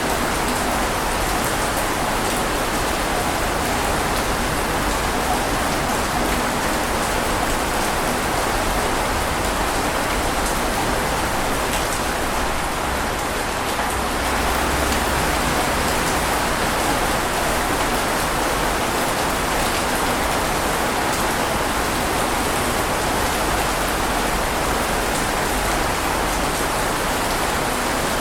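Steady, heavy rain falling in a dense continuous hiss, with faint scattered drop ticks.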